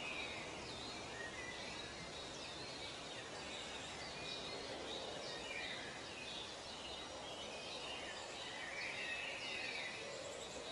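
Birds chirping and calling in many short, quick notes over a steady background hiss.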